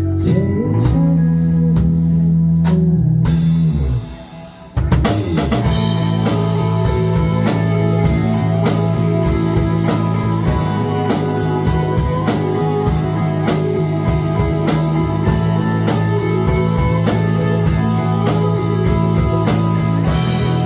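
Live indie rock band playing, with drum kit, electric guitar and a held bass line. About four seconds in the band cuts out for under a second, then comes back in with full drums.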